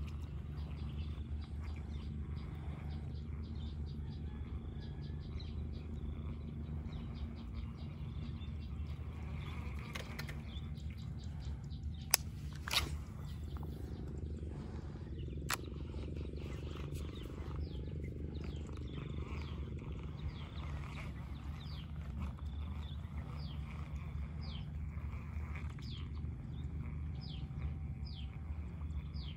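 Birds chirping in short, falling calls that come more often toward the end, over a steady low rumble. A sharp click comes about twelve seconds in, followed closely by a brief louder sound, and another click comes a few seconds later.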